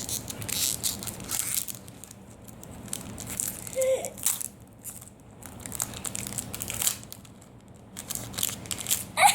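Foil wrapper of a Pokémon card booster pack crinkling and crackling in a child's hands as the pack is handled and the cards are taken out, in irregular bursts with short pauses.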